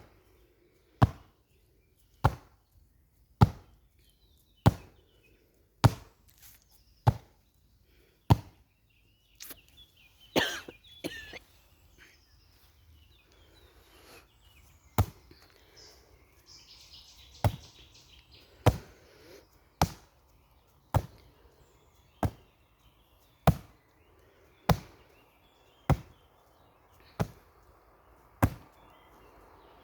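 The top of a bare foot slapping against a tree trunk in a steady series of sharp slaps, a little under one a second. The slaps pause for a few seconds about a third of the way through, then carry on.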